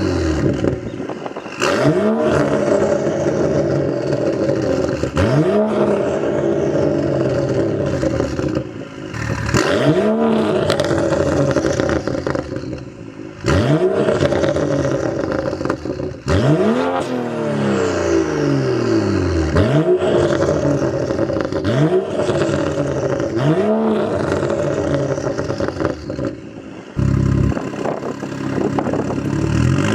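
Straight-piped BMW M235i's turbocharged 3.0-litre inline-six, with a catless downpipe and no muffler or resonator, revved again and again. The pitch climbs and drops back each time, about eight revs in all.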